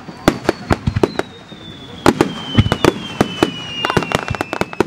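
Fireworks going off in a rapid, irregular string of sharp bangs and cracks, thickest about two seconds in and again near the end, with a high thin whistle slowly falling in pitch throughout.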